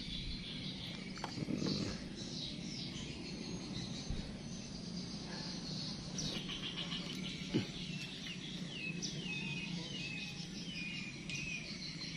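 Wild birds calling, a run of short falling chirps repeating through the second half, over steady outdoor background noise. One sharp click about seven and a half seconds in.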